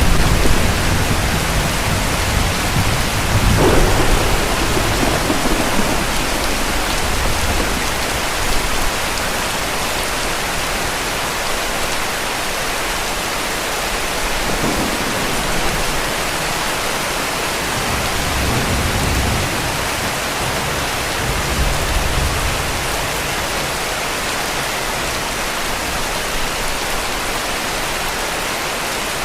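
Heavy rain falling steadily, with a low roll of distant thunder in the first few seconds and a fainter rumble of thunder about two-thirds of the way through.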